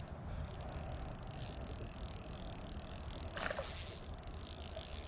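Steady high-pitched insect buzzing over a constant low rumble, with one short sound about three and a half seconds in.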